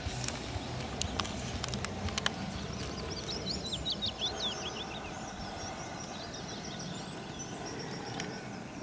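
A small bird twitters in quick, high chirps for a few seconds in the middle, over a steady low outdoor hiss. A few faint ticks sound in the first two seconds.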